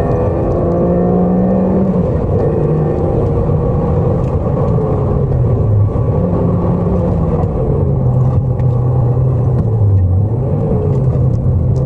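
Toyota MR2's mid-mounted engine heard from inside the cabin while driving, its revs rising and falling, dropping about six seconds in and again near ten seconds, as it works through corners.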